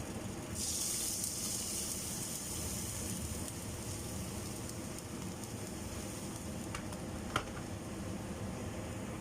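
Rice noodles frying in a hot pan. A sizzle starts suddenly about half a second in and slowly eases. A single sharp clink, likely a utensil on the pan, comes near the end over a steady low rumble.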